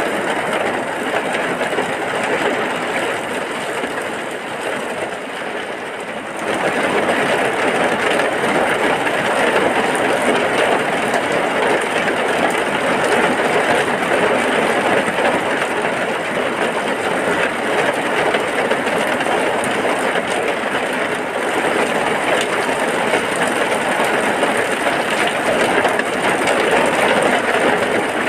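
Heavy rain falling steadily as a dense, even hiss. It is slightly softer for the first six seconds, then turns louder and fuller about six seconds in and stays steady.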